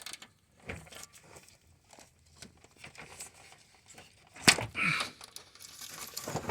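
Scattered clicks and knocks of a 10 mm socket wrench being worked onto an AC condenser mounting bolt in a tight gap, with one sharp knock about four and a half seconds in.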